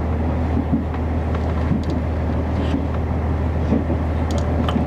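Inside a KiHa 48 diesel railcar running along the line: a steady low drone of engine and running gear, with scattered clicks and knocks from the wheels on the track.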